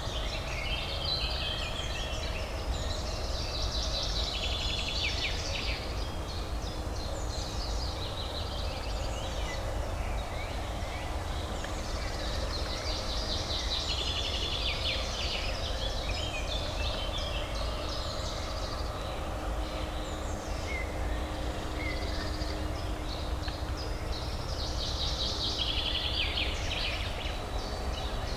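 Birdsong over a steady low urban hum: a songbird sings three long phrases of rapid, high twittering notes, at the start, around the middle and near the end.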